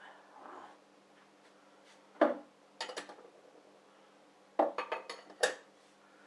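Dishes and cutlery being handled while a dishwasher is emptied: a sharp clunk a couple of seconds in, a few lighter knocks, then a quick run of clinks near the end.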